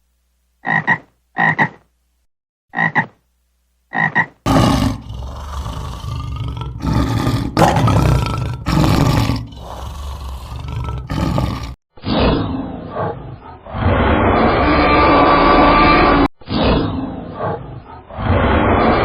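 Animal calls: four short calls in the first few seconds, then a long stretch of loud, rough calling broken by brief gaps.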